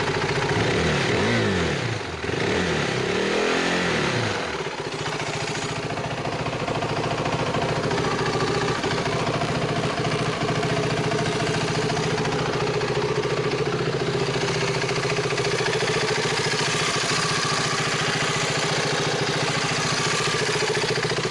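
KTM 390 Duke's single-cylinder four-stroke engine blipped up and down a few times in the first four seconds or so, then idling steadily while it warms up after a cold start.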